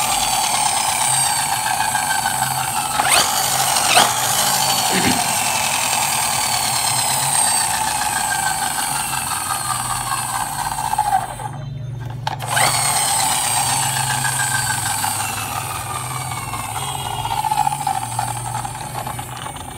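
Toy bus's small electric motor and gears whirring steadily, like a tiny drill. It stops briefly about twelve seconds in, then starts again.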